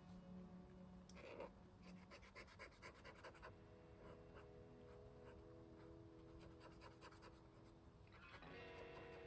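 Very faint background music of slow, held chords that change a few times. Between about one and three and a half seconds in there are faint scratchy strokes of a soft-tip acrylic marker on sketchbook paper.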